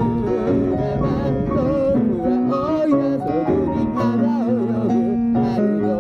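A person singing a melody while accompanying themselves on guitar.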